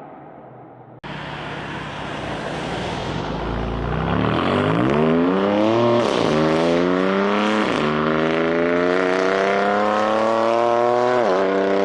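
A car engine accelerating hard through the gears, its note climbing steadily and dropping sharply at each upshift, three times.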